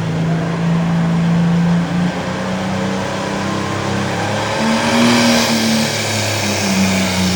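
Modified pulling tractor engine running hard under load during a pull. Its pitch dips about two seconds in, then swells again briefly and near the end.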